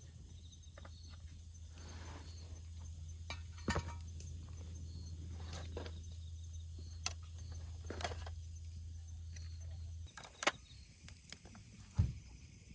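Insects trilling faintly and steadily, with scattered sharp clicks and a low hum that stops about ten seconds in.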